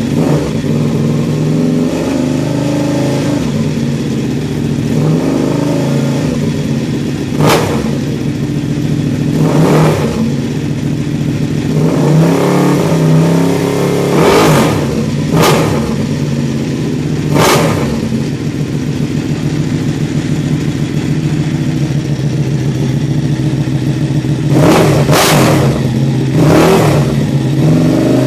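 Ducati Panigale 899's Superquadro V-twin running through an SC-Project aftermarket exhaust: a steady low idle, blipped on the throttle again and again. The blips come as about ten short, sharp bursts, several close together near the end.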